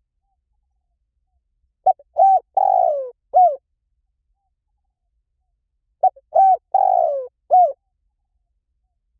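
Spotted dove cooing, two phrases about four seconds apart. Each is a short note and a coo, then a longer coo that falls in pitch, then a final coo.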